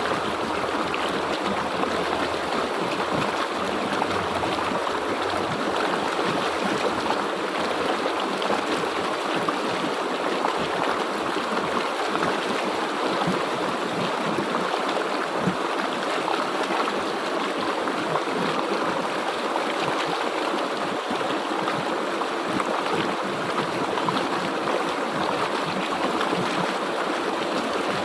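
River water flowing and splashing over rocks, a steady rushing sound.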